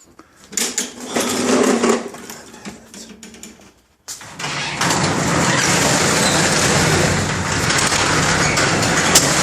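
A lawn mower's small engine starts suddenly about four seconds in and runs steadily. It is a restart of a mower that keeps stalling after a few minutes of mowing.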